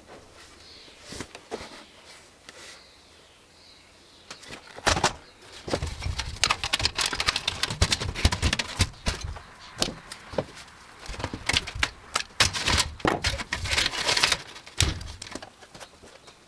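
Dense clattering and knocking of computer parts being handled and pulled apart, beginning about five seconds in and going in quick clusters of clicks with short pauses until just before the end.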